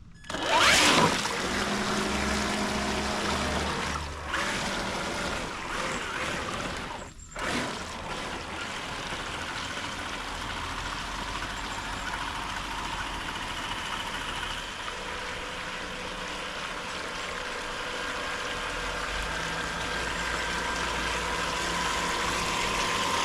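Water churning and splashing from a radio-controlled car's spinning wheels as it paddles along afloat at full throttle, with a faint steady motor whine. The sound drops out briefly about four seconds in and again about seven seconds in.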